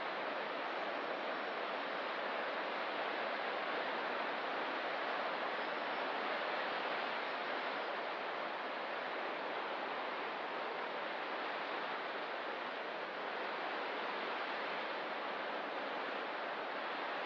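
Ocean surf washing on the coast: a steady, unbroken hiss of breaking water with no distinct wave crashes.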